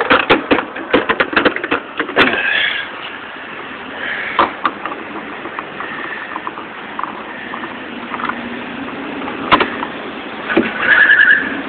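Gas pump nozzle trigger clicked over and over to top off the tank: a fast run of sharp clicks over the first two seconds, then quieter handling knocks and a short tone near the end.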